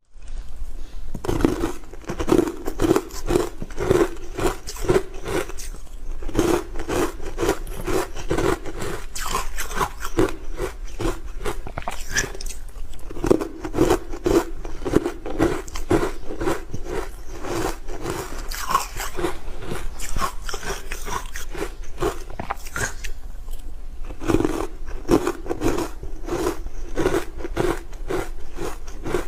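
Close-miked biting and chewing of hard frozen ice with matcha: a continuous run of loud, sharp crunches and cracks, several a second, as the ice is broken up between the teeth.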